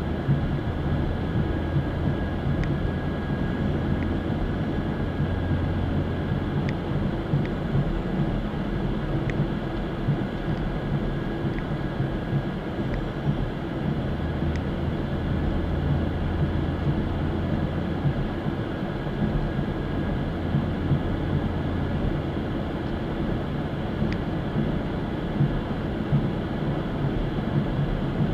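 Chevrolet Camaro cruising at a steady speed: a constant low engine drone over road noise, with faint clicks here and there.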